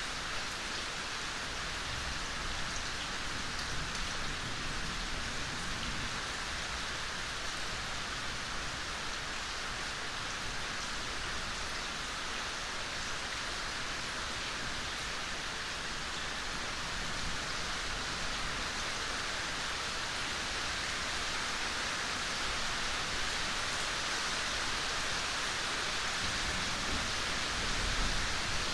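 Steady soft rain falling, an even hiss of many small drops, growing slightly louder in the second half.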